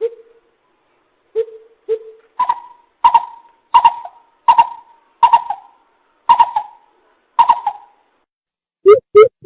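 Greater coucal lure call, the hooting series played to call the birds in. A few deep hoots, then a slower run of higher, echoing hoots about one a second, and near the end a fast run of deep hoots begins.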